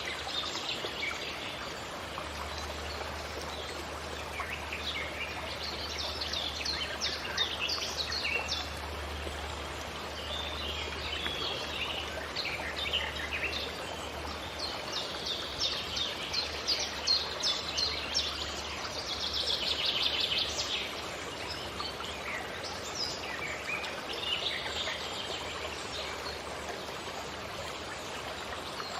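Forest birds singing: many quick, high chirps and trills in repeated bursts, over a steady rushing background noise.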